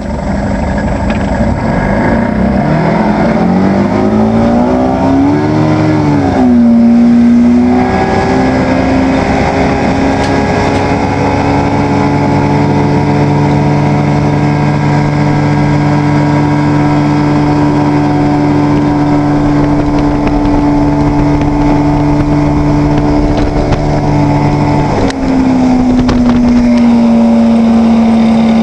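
Evinrude 120 hp V4 two-stroke outboard motor running. Its pitch climbs over the first few seconds, dips briefly, then holds a steady speed, and settles a little lower about 25 seconds in.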